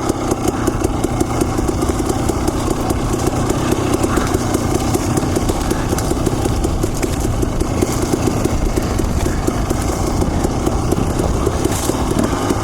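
Husqvarna TE250 two-stroke dirt bike engine running steadily while the bike is ridden along a trail.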